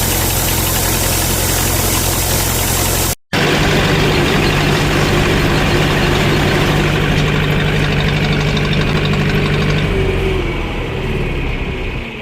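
A heavy farm-vehicle engine running steadily. There is a sudden break about three seconds in, and then an engine runs again with a steady hum that eases off near the end.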